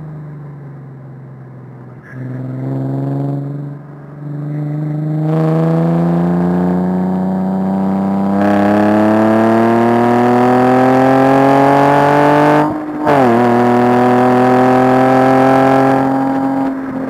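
Nissan 370Z Nismo's 3.7-litre V6 heard from inside the cabin, accelerating hard. At first it is off the throttle, with a short burst of throttle about two seconds in. From about five seconds in the engine note rises steadily. It drops briefly at an upshift about 13 seconds in, then climbs again before easing off near the end.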